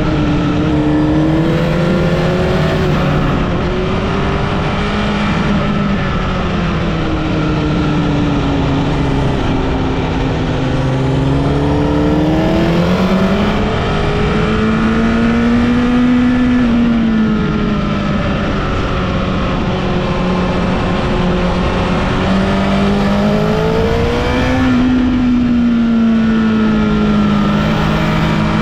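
Honda CBR1000RR (SC77) inline-four sport-bike engine under way, heard from on board. Its revs rise and fall steadily through the bends over a constant rush of wind noise.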